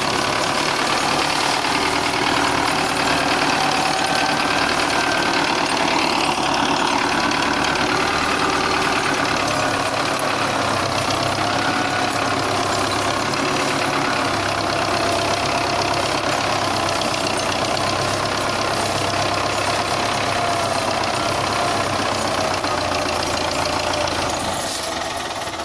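Engine of a Russian-built 510 diesel tractor running steadily.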